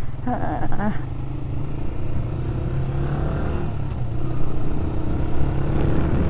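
Motorcycle engine running steadily, with a short burst of voice about half a second in.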